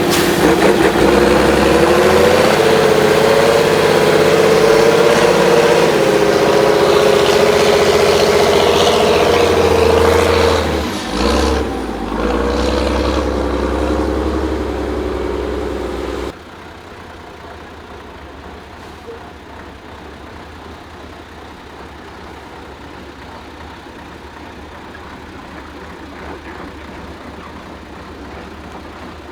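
Praga V3S 6x6 truck's air-cooled six-cylinder diesel running loud, revving with its pitch rising and falling for about sixteen seconds. Then the sound drops suddenly to a quieter, steady low engine rumble.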